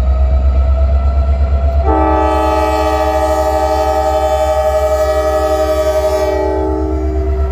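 Freight locomotive air horn sounding one long blast of several notes together, starting about two seconds in and lasting about five seconds, over the steady low rumble of a train running.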